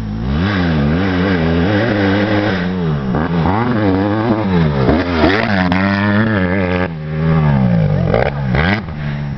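Honda CRF150 motocross bike's four-stroke single engine being ridden hard, its pitch climbing and dropping again and again with the throttle and gear changes.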